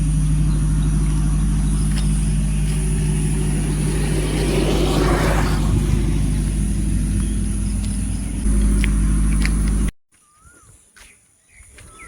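Steady low engine hum of a motor vehicle, with a swell of noise about five seconds in. It cuts off abruptly near the end, leaving quiet outdoor sound with a short chirp.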